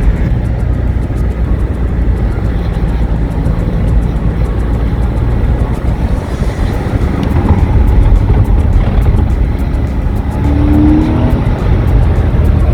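Porsche 986 Boxster's flat-six engine pulling in second gear at fairly high revs, with road noise, heard from inside the car.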